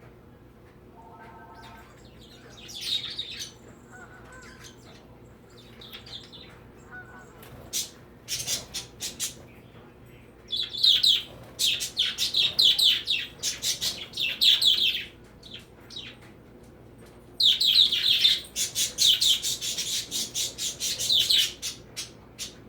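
Birds chirping and squawking: a few scattered calls at first, then two long runs of rapid, high-pitched calls, one in the middle and one near the end.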